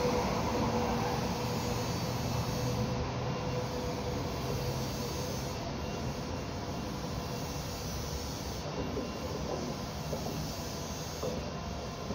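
A train's rumble fading steadily as it moves away, with a faint high whine that dies out in the first couple of seconds.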